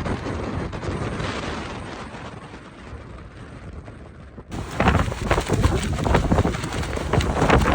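Storm-force wind gusts buffeting the microphone: a rushing, rumbling wind noise. About four and a half seconds in it turns abruptly louder, with rapid hard gust blasts.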